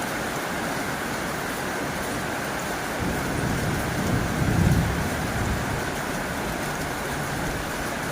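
Heavy rain drumming steadily on a tin roof. A low rumble swells about three seconds in and fades a few seconds later.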